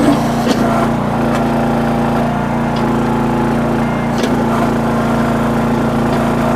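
Small gas engine of a towable backhoe running steadily under hydraulic load while the bucket digs, with a few sharp clicks and knocks as it works into rocky ground.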